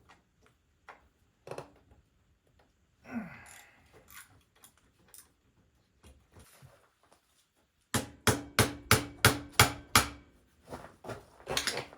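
Hammer striking a metal part. At first there are scattered light knocks and clicks of handling. About eight seconds in comes a quick run of about ten hard blows, roughly four a second, each with a short metallic ring, and a few more blows follow near the end.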